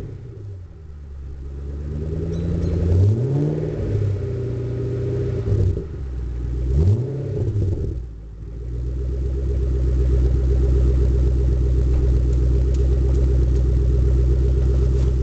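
2009 Ford Shelby GT500's supercharged 5.4-litre V8 through Steeda mufflers, revved up and back down three times. It then settles into a steady idle from about halfway through.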